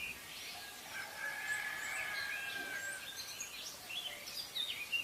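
Songbirds chirping, many short rising and falling calls, with one longer steady note held for about two seconds, over a light background hiss.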